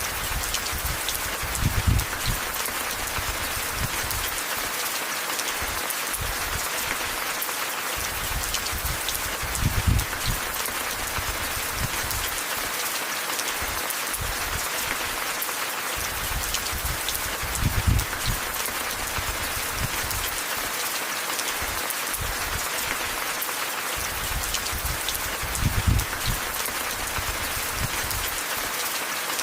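Steady rain falling, a dense even patter of drops. A low rumble swells briefly about every eight seconds, four times.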